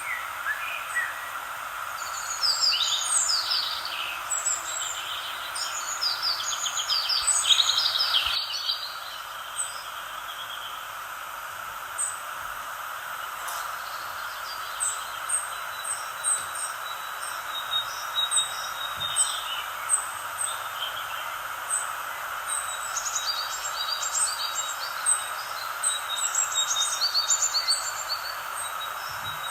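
Several songbirds chirping and trilling, busiest in the first few seconds and again near the end, with sparse chirps in between, over a steady background hiss.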